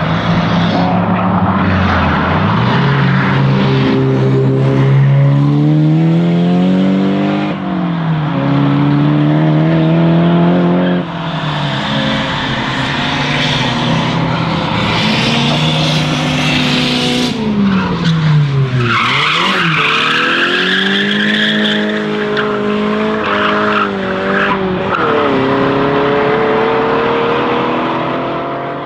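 A car engine revving hard, its pitch climbing and then dropping sharply again and again, with tyre squeal through the middle. The sound fades out near the end.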